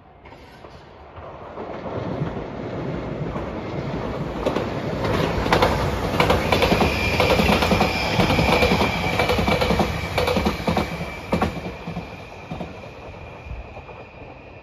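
JR Shikoku 8600 series electric limited express train passing at speed: the wheels clatter over the rail joints as it draws near, passes and fades away. A high steady whine sets in as it goes by and lingers while it recedes.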